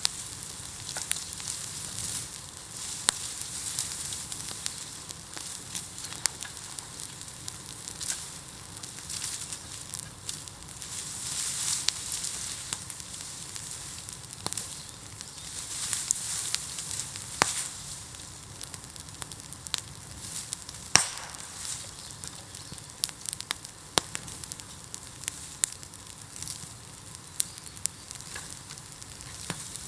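Bonfire of piled bamboo burning: a steady hiss with frequent sharp crackles and occasional louder pops, the hiss swelling for a few seconds now and then.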